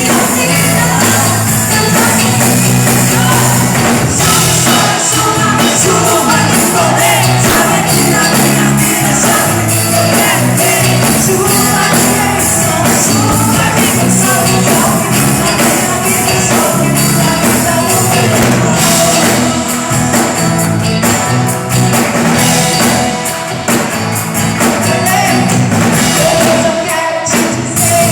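Live gospel worship band playing with singing voices and tambourine, loud and continuous.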